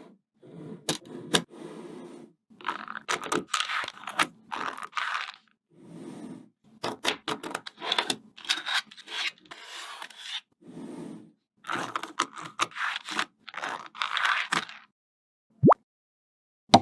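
Small coloured magnet balls clicking and scraping against each other as they are snapped and pushed into place, in bursts of sharp clicks and gritty rubbing with short silent gaps between. A brief rising tone sounds near the end.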